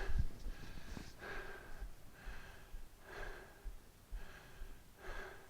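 A man breathing hard and fast, one heavy breath about every second, recovering after a 30-second set of kettlebell hang snatch thrusters.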